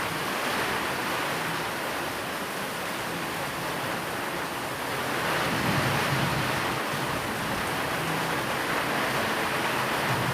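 Steady rain falling, an even hiss that swells a little louder with a low rumble just past the middle.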